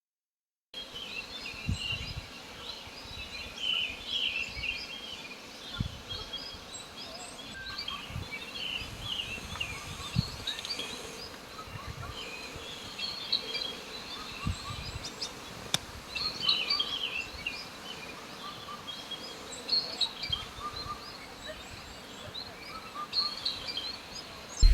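Small birds chirping, with many short high calls overlapping throughout, over a soft outdoor hiss and occasional low thumps. It begins abruptly a moment after the start.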